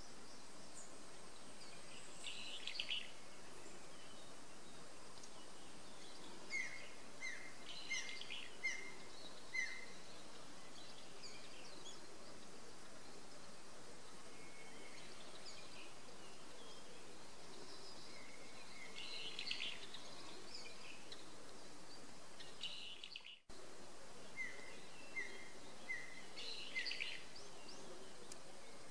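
Wild birds singing over a steady outdoor hiss. One bird repeats a quick run of short descending notes, about five in a row, and the run comes again near the end. Other chirps are scattered through. The sound cuts out for an instant about two-thirds of the way through.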